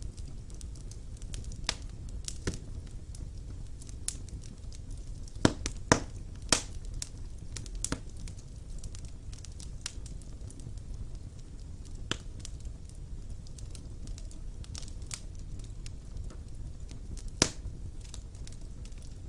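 Wood fire burning in a stone fireplace: a steady low rumble of the flames with irregular sharp crackles and pops of the burning logs, a few louder snaps about five to six and a half seconds in and again near the end.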